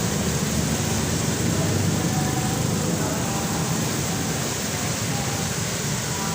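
Steady rain mixed with road traffic passing on a wet road: a continuous, even hiss with no distinct events.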